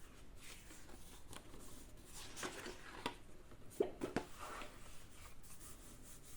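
Quiet rubbing and scratching strokes of hands working over paper and art supplies, with two sharp clicks near the middle.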